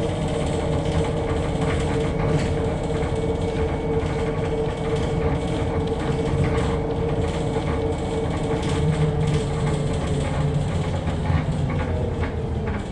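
Interior of a MAZ-105 articulated city bus under way: the drivetrain runs with a steady whine while body panels and fittings rattle and creak. Near the end the whine falls in pitch as the bus slows.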